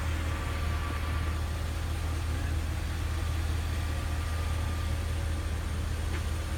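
A vehicle engine idling: a steady low hum that does not change.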